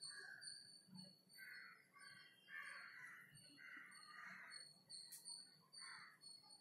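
Faint harsh bird calls, four or five in a row, over a faint high-pitched chirp repeating about twice a second.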